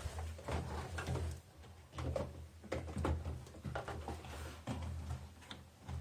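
Handling noise of a rubber washing-machine tub cuff being pulled and stretched by hand over the rim of the plastic tub: irregular rubbing and small clicks and knocks, over a low hum.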